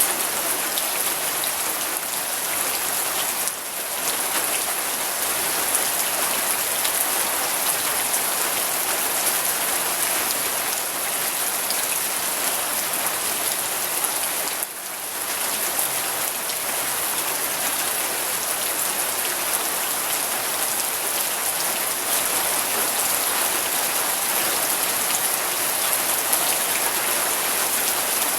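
Steady, heavy rain falling and pattering on surfaces, an even hiss of many drops, with two brief dips in level, one a few seconds in and one about halfway through.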